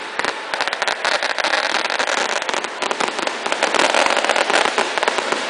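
Fireworks crackling: a dense, continuous run of small bangs and pops with no break.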